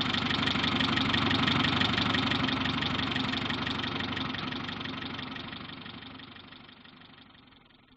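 Car engine running steadily, then fading away over the last few seconds.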